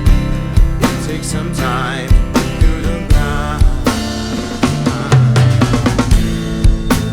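Rock drum kit played with a steady beat of bass drum and snare hits and cymbals, over a band track of bass and electric guitar.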